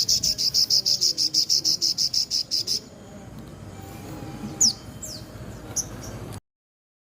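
Sogon bird singing a fast, even, high-pitched buzzing trill of about eight notes a second, which stops about three seconds in. A couple of quick high falling chirps follow, and the sound cuts off near the end.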